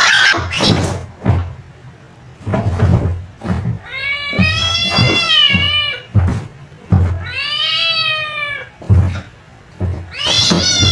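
Domestic cat meowing: two long, drawn-out meows that rise and then fall in pitch, with a third beginning near the end.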